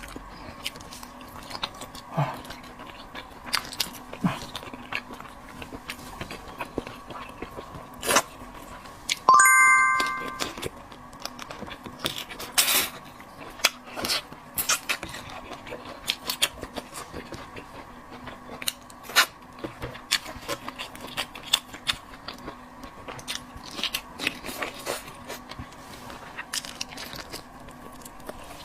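Close-miked eating sounds: chewing, biting and small clicks of utensils on food and dish, scattered irregularly. One loud, brief, high ringing tone sounds about ten seconds in.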